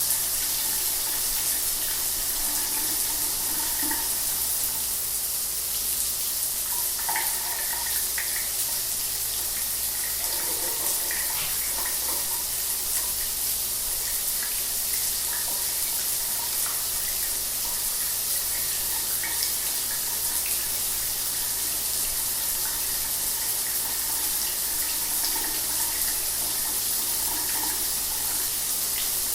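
Shower water running steadily, a constant hiss of spray with small splashes in it.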